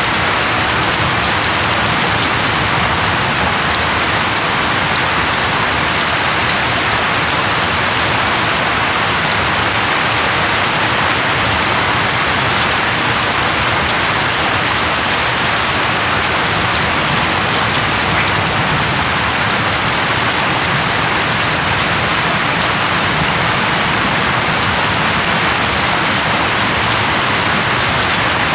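Steady rain falling on a surface, a dense even patter of raindrops with no let-up.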